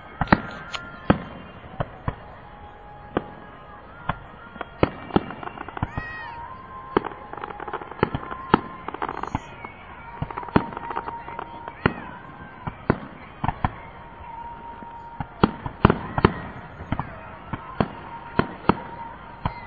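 Fireworks going off in a rapid, irregular series of sharp bangs and pops.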